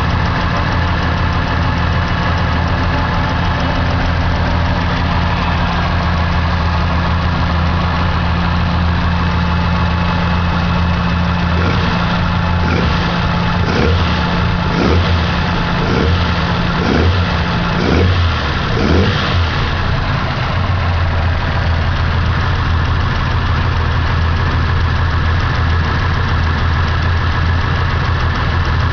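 Car engine idling steadily, freshly adjusted so that it will hold an idle. About halfway through, the throttle is blipped about eight times, roughly once a second, before the engine settles back to idle.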